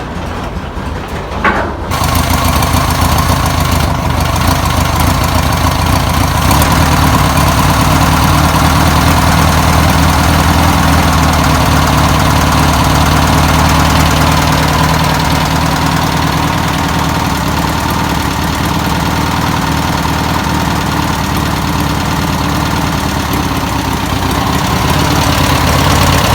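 1962 Volkswagen Type 2's air-cooled flat-four engine catching about two seconds in and then running steadily, after sitting unstarted for over 40 years.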